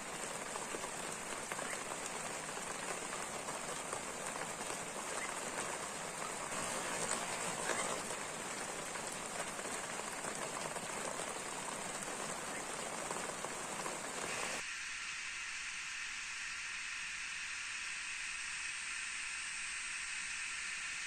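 Rain falling steadily, an even hiss of drops. About two-thirds of the way through it cuts abruptly to a thinner, higher hiss.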